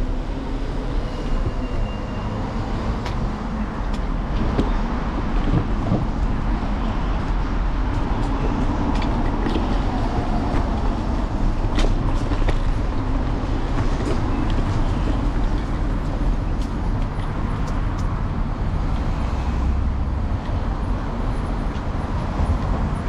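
City street traffic noise heard from a moving electric scooter: a continuous rumble, with scattered short clicks and knocks and a brief high tone about a second in.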